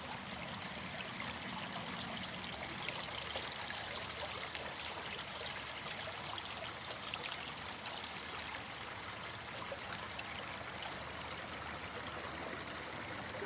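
Water flowing steadily in a stream, a continuous rushing with fine trickling and splashing.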